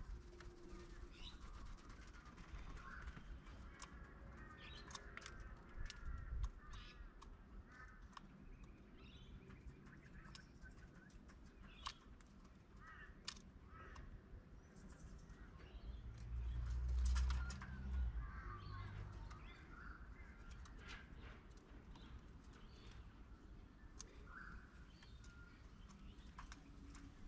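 Birds chirping and calling with many short notes, among scattered sharp clicks. A louder low rumble comes about sixteen seconds in and lasts a couple of seconds.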